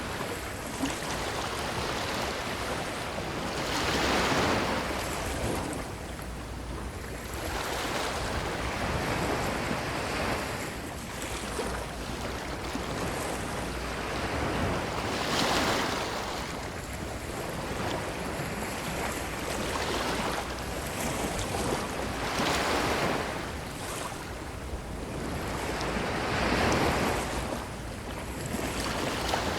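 Ocean waves washing onto a beach: a steady rush of surf with a wave breaking every several seconds, each swelling up and fading away.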